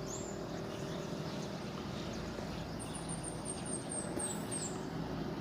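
Steady outdoor background noise with a bird chirping a quick run of about eight very high notes in the middle.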